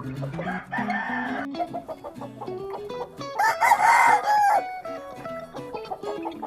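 Gamefowl rooster crowing twice: a shorter call about a second in, then a louder crow lasting over a second in the middle.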